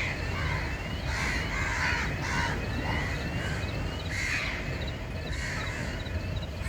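A flock of birds calling over and over with harsh, noisy calls, mixed with thin rising chirps, over a steady low rumble.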